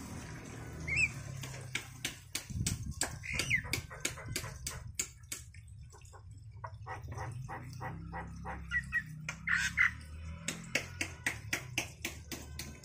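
Pet bird giving a few short squawking calls among a busy run of sharp clicks and taps.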